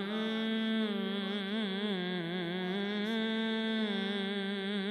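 A solo male voice chanting an Arabic ibtihal, holding one long, unbroken melismatic line that wavers up and down in ornaments.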